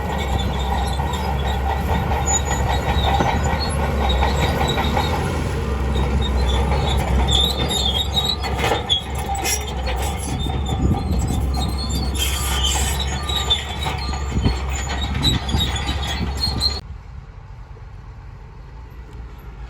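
Crawler bulldozer working, with its engine rumbling and the steel tracks squealing and clanking as it moves. Near the end the sound cuts off suddenly, leaving a quieter engine idling.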